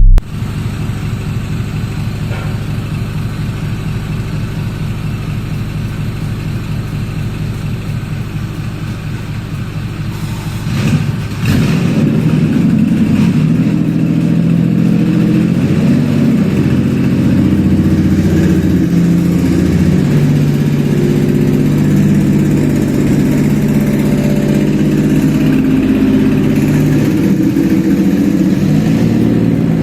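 Toyota 1MZ 3.0-litre V6 on an engine test stand being cranked by the starter for about eleven seconds, then catching about eleven seconds in and running steadily, louder, for the rest of the time on its first start.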